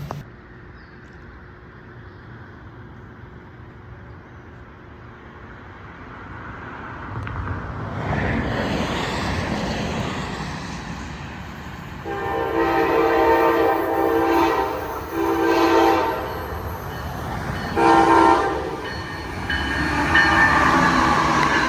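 A train approaches, growing louder from about eight seconds in, then sounds its horn as a chord in the grade-crossing pattern: two long blasts, a short one, and a final long one starting near the end.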